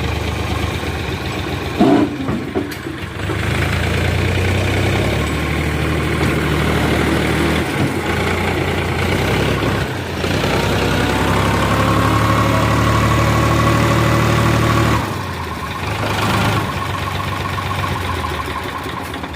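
Sonalika tractor's diesel engine running, with a brief knock about two seconds in. The engine speeds up after about ten seconds, holds, then drops back near the end.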